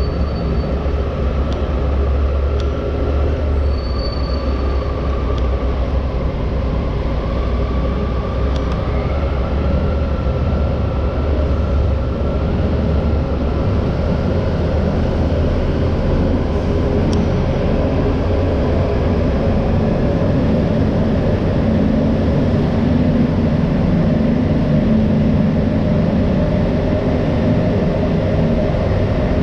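A moving vehicle running steadily: a constant low rumble with a faint whine that drifts slightly in pitch.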